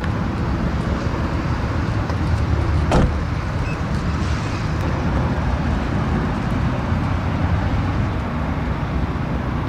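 Steady car road and engine noise of a car being driven, with one short knock about three seconds in.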